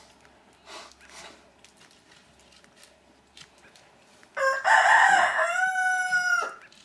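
A rooster crowing once, a loud call of about two seconds that starts a little past the middle and ends abruptly on a held note.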